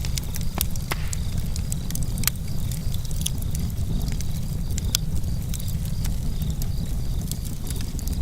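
Campfire crackling: irregular sharp pops and snaps of burning wood, several a second, over a steady low rumble.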